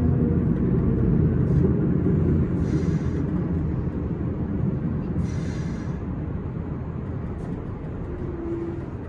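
S-Bahn train running with a steady low rumble that slowly fades, with short hissing sounds about three and five and a half seconds in.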